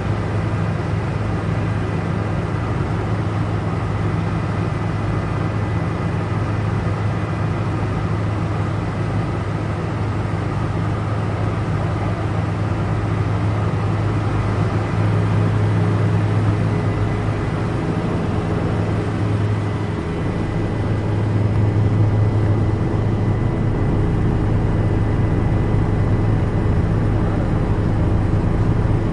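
Toy remote-control helicopter's electric motor and rotor running steadily: a low rotor hum with a thin high motor whine, swelling a little twice.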